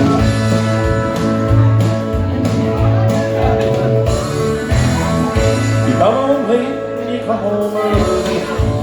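Live band playing the intro of a country song, with sustained chords over a steady, pulsing bass line. A man's singing voice comes in about two-thirds of the way through.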